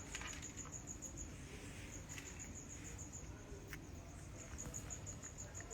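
Faint cricket chirping: a high, rapid pulsing, about eight pulses a second, in trains broken by short pauses, with a couple of faint clicks.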